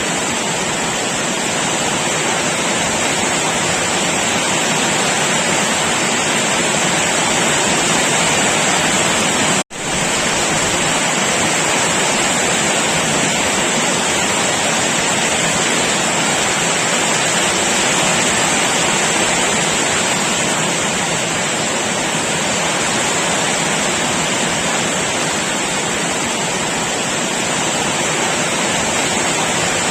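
Heavy rain pouring down steadily as a dense, even hiss. It cuts out for a split second about ten seconds in, then carries on unchanged.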